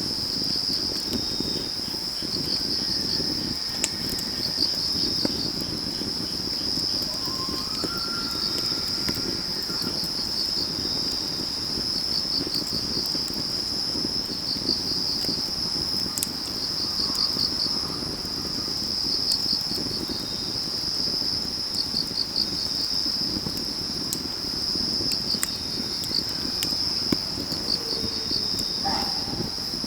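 Crickets and other autumn field insects chirping in a steady high trill, with quick pulsed bursts every second or two. Under them, a wood fire burns with a soft low crackle and occasional sharp pops.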